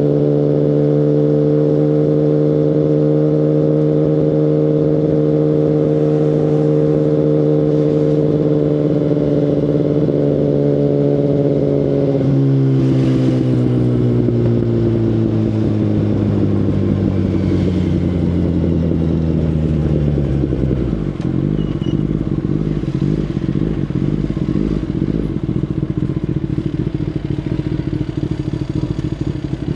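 2019 Kawasaki Ninja ZX-10RR's inline-four engine through an Akrapovic Evolution Line carbon full exhaust, holding steady revs under way. A little before halfway the revs wind down steadily as the throttle closes, settling into a low, uneven burble for the last third.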